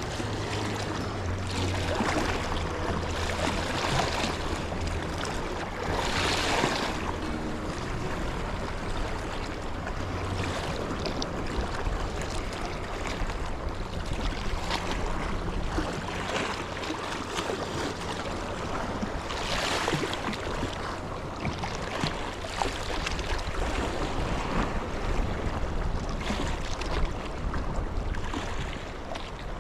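Sea waves washing against the shore with wind on the microphone, a steady rush with two louder surges partway through.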